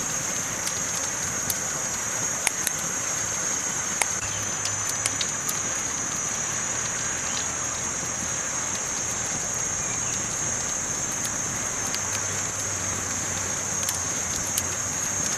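Campfire burning, a steady crackle with scattered sharp pops, the loudest about two and a half and four seconds in, over a steady high-pitched hiss.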